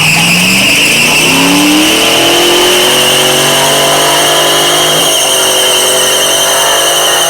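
Car engine revving up over about two seconds and then held at high revs during a burnout, with a steady high tire screech throughout.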